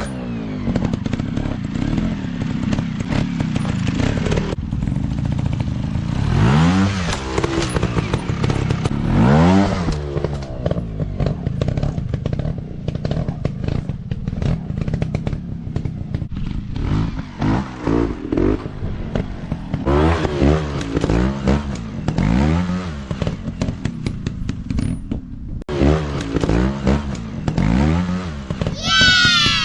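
Off-road dirt bike engines revving in repeated short throttle blips, the pitch swinging up and down over and over, with a higher, sharper rev near the end.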